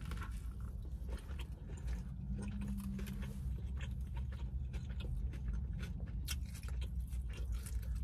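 A person taking a bite of a chicken salad sandwich and chewing it close to the microphone, with many small irregular mouth clicks.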